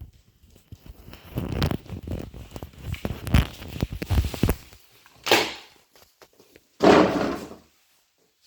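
Handling noises: a run of knocks and thumps for a few seconds, then two short scraping or rustling bursts.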